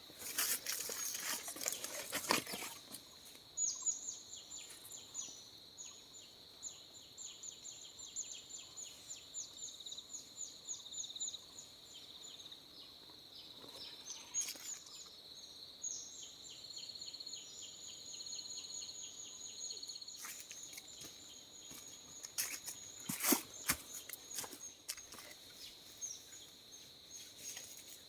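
Forest insects: a steady high-pitched drone with rapid trilling pulses above it that come and go, and short bursts of rustling near the start and again about 23 seconds in.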